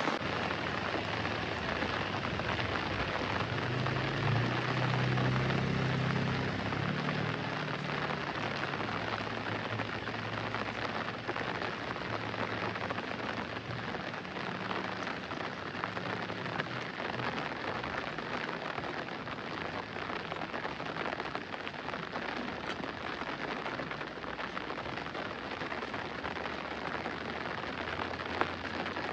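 Heavy rain falling steadily, a dense even hiss. A low rumble swells about three seconds in and fades away by about ten seconds.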